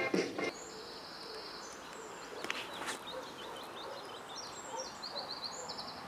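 Small birds chirping in series of short, high notes over a faint steady outdoor hiss, with two brief soft clicks about two and a half to three seconds in.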